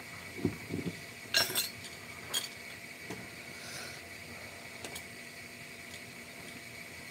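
A few soft knocks, then two sharp clinks of hard objects knocking together, with a couple of faint ticks after, over a faint steady high whine.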